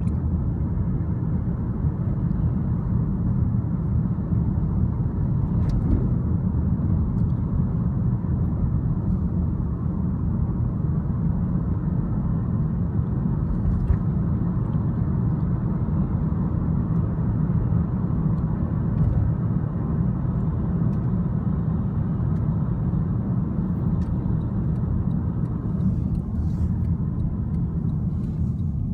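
Honda Fit being driven, heard from inside the cabin: a steady low rumble of engine and road noise.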